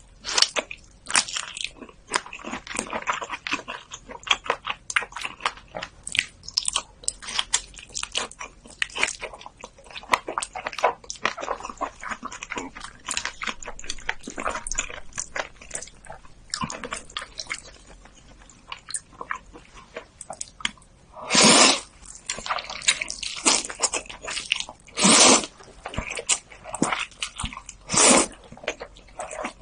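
Close-miked eating: a person chewing and biting with many wet mouth clicks and smacks, and three louder, longer noisy sounds in the last third.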